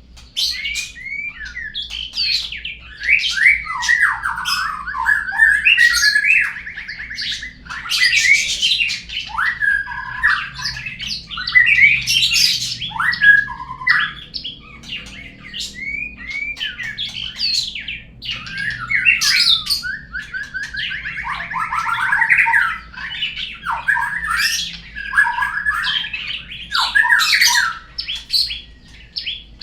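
Murai batu (white-rumped shama) song played as a lure track: a continuous run of varied whistles, fast chattering trills and harsh notes with only short pauses. A faint low hum sits beneath it.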